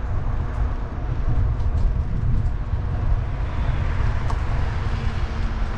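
Wind buffeting the microphone of a rider moving along on a fat-tire e-bike: a continuous, unsteady low rumble, with a faint steady hum coming in near the end.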